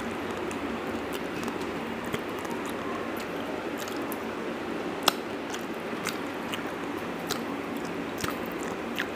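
Close-up wet chewing and mouth clicks of a person eating rice and dal by hand, with fingers gathering food from a steel plate. Many small clicks, one sharper click about halfway through.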